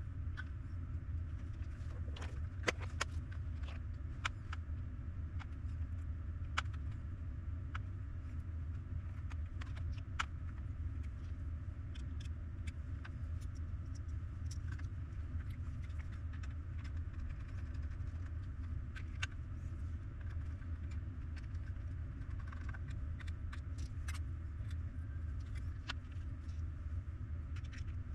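A steady low rumble with scattered light clicks and taps, a few of them sharper, such as small plastic parts and tools being handled.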